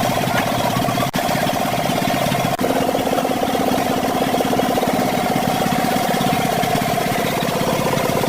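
An engine running steadily with a fast even pulse, its note shifting slightly a few seconds in.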